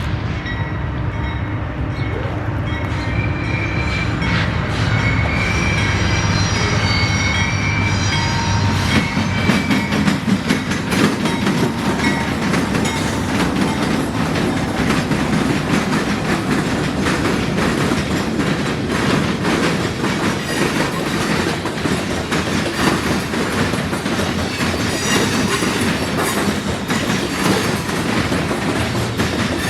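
Freight train wheels clattering across a railroad diamond crossing in a steady, dense run of clicks and bangs. For about the first nine seconds a diesel locomotive's engine runs under it along with a high wheel squeal.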